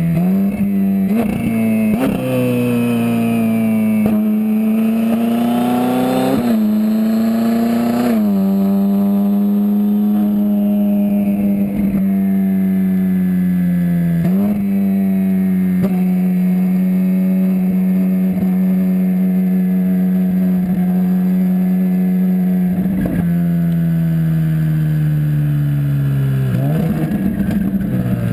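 Twin-turbocharged Ferrari 458 Spider's 4.5-litre V8 running under way, its pitch dropping and jumping at several quick gear changes and holding a steady drone in between.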